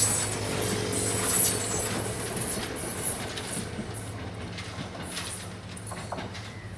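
Sri Lanka Railways train running past on the track, with wheels knocking over rail joints and a high wheel squeal, fading as it moves away.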